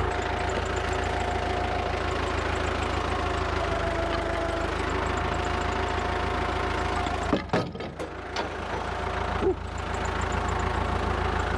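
Forklift engine idling steadily, with a few sharp knocks about two thirds of the way through as the logs are handled.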